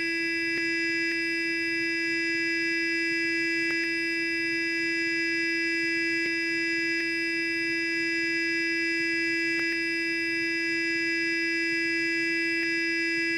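Sonic electric toothbrush running, a steady buzz that holds one pitch and level throughout, with a few faint ticks.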